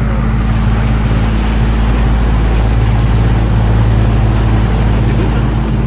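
Open canal tour boat's inboard engine running steadily at cruising speed, a constant low hum under a broad hiss.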